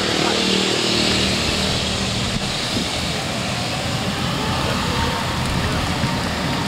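Jet airliner engines running: a steady, loud rushing noise with a few low steady tones in the first two seconds.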